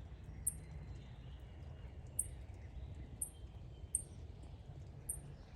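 A small bird giving short, very high-pitched chirps, five of them spaced roughly a second apart, over a low steady background rumble.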